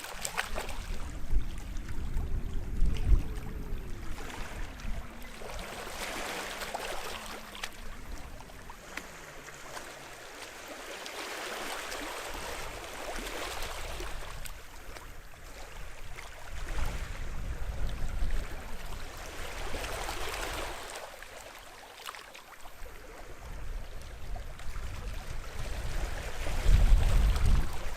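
Small sea waves washing in on the shore, the wash swelling and ebbing every few seconds, with deep rumbles on the loudest surges.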